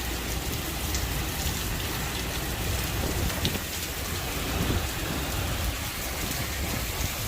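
Heavy rain pouring down steadily in a thunderstorm, with a steady low rumble underneath.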